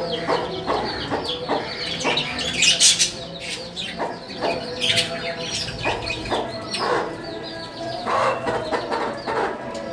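A flock of small pet parrots kept as love birds chirping and chattering continuously in quick, shrill, overlapping calls, with a louder flurry about three seconds in.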